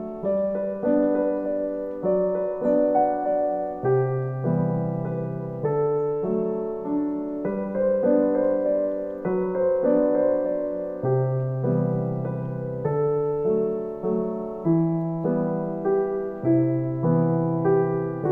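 Background piano music, a gentle melody over slow bass notes.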